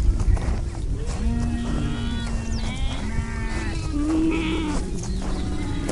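A flock bleating: several long, overlapping bleats from different animals, one after another with hardly a gap.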